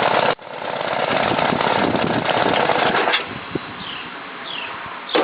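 John Deere 60's two-cylinder engine running with a rapid popping beat, then shut off about three seconds in; a few faint bird chirps follow.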